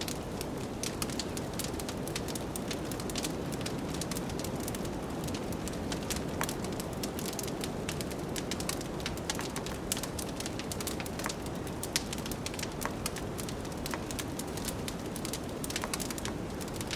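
Wood fire crackling with frequent sharp pops and snaps over a steady low rush of blizzard wind.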